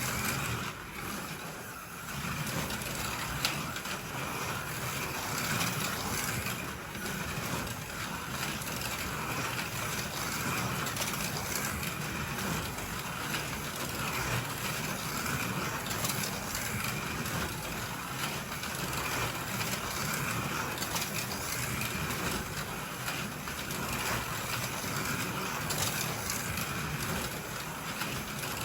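Two NSR Fiat 500 Abarth slot cars lapping a plastic Ninco track: small electric motors and gears whining, their level rising and falling continuously as the cars speed up and slow down around the circuit.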